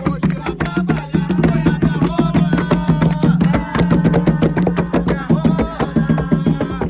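Umbanda ponto music driven by atabaque hand drums playing a fast, steady rhythm of dense strokes, with a pitched melodic line over it.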